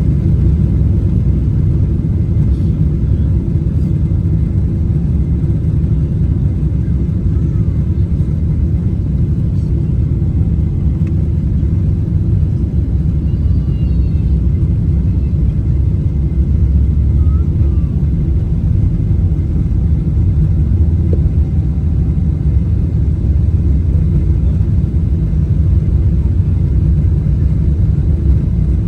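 Steady, loud low rumble inside the cabin of a Boeing 777-300ER airliner: engine and airframe noise with no rise or fall.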